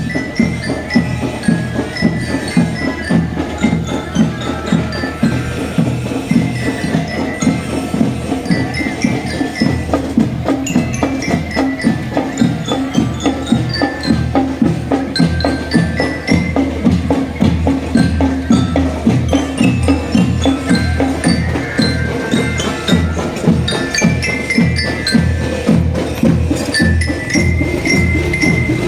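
A drumband playing: a bright glockenspiel-type melody on mallet-struck bells over fast, steady marching drums.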